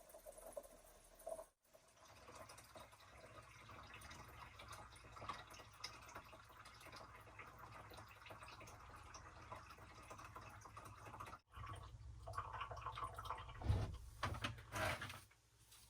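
Water pouring from a jug into a portable flushing toilet's fresh-water tank, a steady trickling and splashing fill that breaks off briefly twice, with a few louder splashes near the end.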